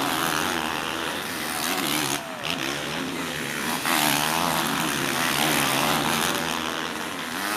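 Motocross bikes racing, several engines revving up and down at once over a constant wash of engine noise, with a brief drop in level about two seconds in.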